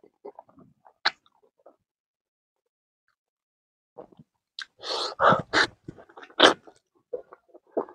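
Eating sounds of a person biting into and chewing a chunk of smoked pork: a few faint mouth clicks, a silent pause, then from about four seconds in a run of loud, wet bites, chews and lip smacks.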